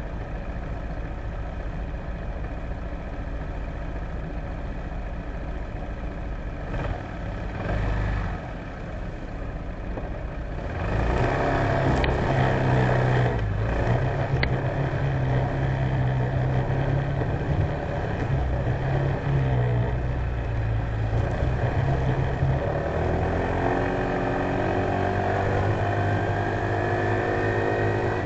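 Honda PCX150 scooter's single-cylinder engine running at low speed, picked up by a dashcam mounted on the scooter. It grows louder about eleven seconds in, with two sharp clicks soon after, and rises in pitch near the end as the scooter picks up speed.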